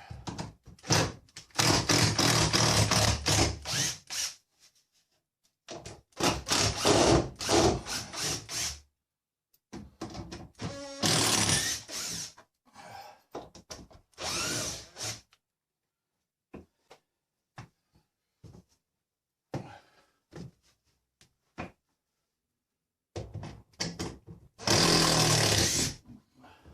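Power drill running in several bursts of a few seconds each, with short knocks and clicks in the pauses between them.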